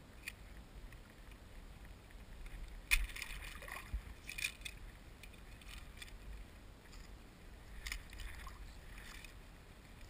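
Water splashing and small knocks around a fishing kayak, in a few short bursts about three, four and eight seconds in, over a low rumble of wind on the microphone.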